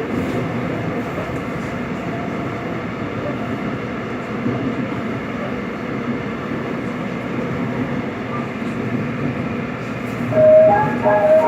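Seoul Metro Line 7 subway train running between stations, heard from inside the car: a steady rumble of wheels and traction motors. About ten seconds in, a short melodic chime starts up over it, the onboard signal that comes before the next-station announcement.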